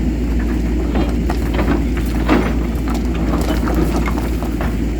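A motor running steadily, with scattered clicks and knocks over it.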